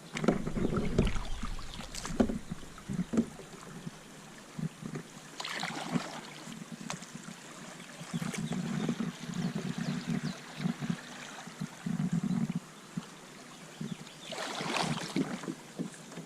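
A kayak being paddled on a river: paddle splashes a few seconds apart, with a few sharp knocks early on.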